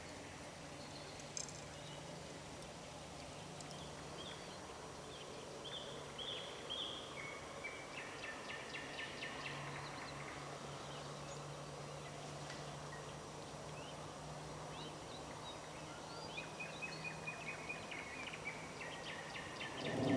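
Small birds singing in a spring forest: scattered short high chirps, with a rapid trill of repeated notes about eight seconds in and another near the end. A faint steady low hum runs underneath.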